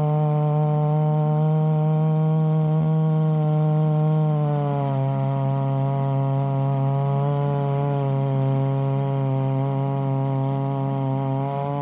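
Chainsaw running at high, steady revs while ripping a log lengthwise in a chainsaw mill. Its pitch sags a little about four seconds in and holds there.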